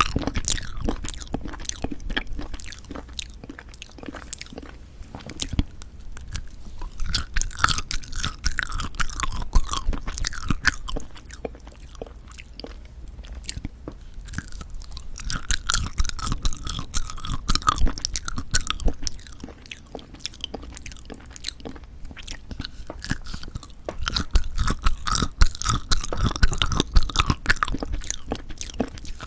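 Close-miked chewing and biting of jelly candies, with crunching clicks that come in spells separated by short quieter gaps.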